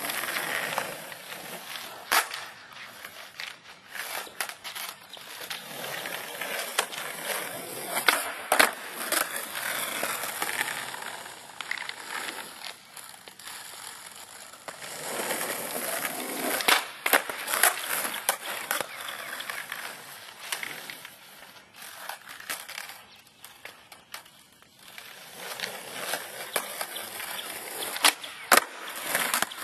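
Skateboard rolling on pavement, its wheels hissing as it speeds up and slows down, with several sharp pops of the tail and clacks of the board landing or hitting the ground during flip-trick attempts.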